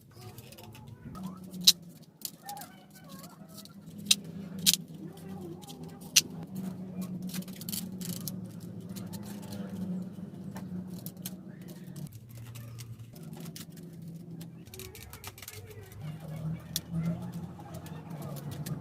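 Birds calling, with a low steady cooing-like drone, broken by several sharp clicks or knocks in the first half, the loudest one about two seconds in.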